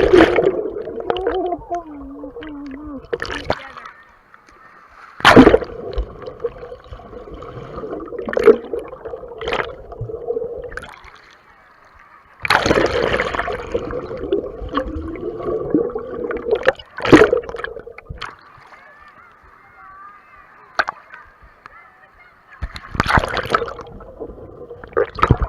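Water sloshing and splashing in loud irregular bursts, heard muffled through a waterproof camera case, with indistinct voices in the background.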